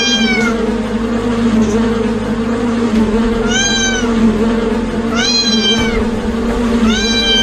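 A kitten meowing four times, each short high meow rising and falling in pitch, over a steady low hum.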